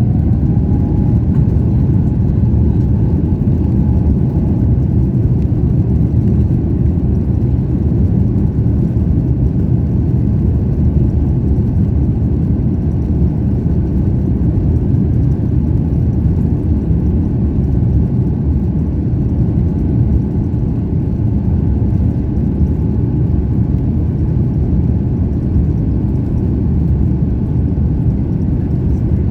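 Airbus A350-900's Rolls-Royce Trent XWB engines at takeoff thrust, heard from inside the cabin as a loud, steady rumble.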